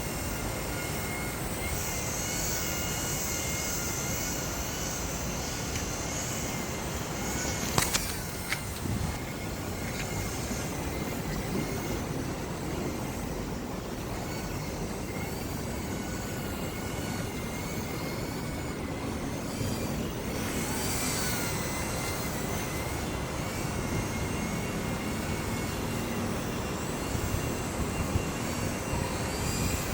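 Electric motor and propeller of a JJRC M06 small RC plane whining in flight, the pitch wavering up and down, over heavy wind noise on the microphone. A sharp click about eight seconds in.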